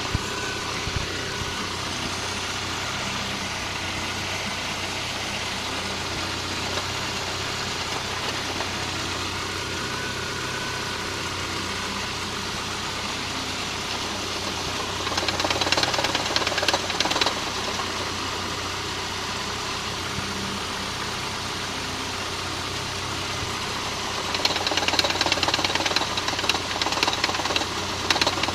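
MG F's Rover K-series four-cylinder engine idling with a knocking noise, growing louder in two spells of rapid knocking about midway and near the end.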